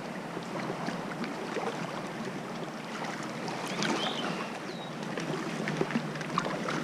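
Seawater lapping and sloshing around a kayak, with many small splashes and drips.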